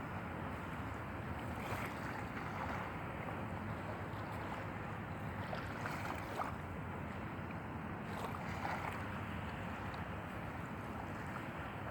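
Steady wind and water noise.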